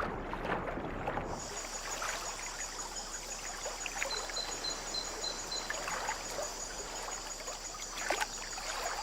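An armadillo swimming: irregular splashing and sloshing of water from its paddling strokes. A steady high-pitched drone comes in about a second and a half in, with a short run of about six high chirps in the middle.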